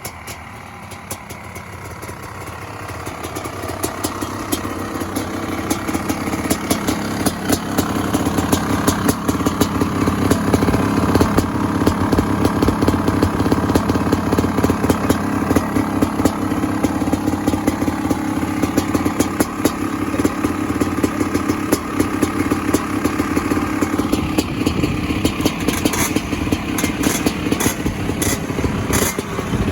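Honda CR500 two-stroke single-cylinder dirt bike engine running just after a cold start, with fast, even firing. It grows louder over the first several seconds, then holds steady.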